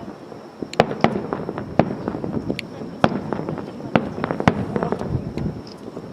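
Fireworks display: an irregular string of sharp cracks and pops from bursting shells, a few loud ones among many fainter.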